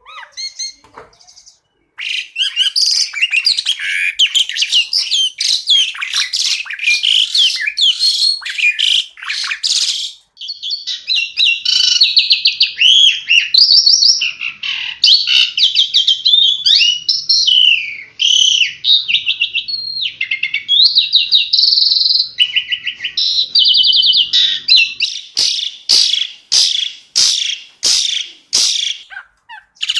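Asian pied starling (jalak suren) singing a long, varied song: a stretch of dense harsh chatter, then whistled glides and fast trills, then a quick series of short sharp notes near the end.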